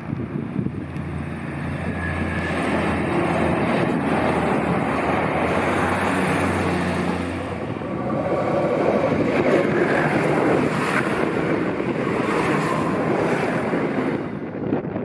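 Diesel railcar approaching and passing directly over the track, its engine running and wheels rumbling on the rails. It builds over the first couple of seconds, stays loud, and drops off sharply near the end as the train clears.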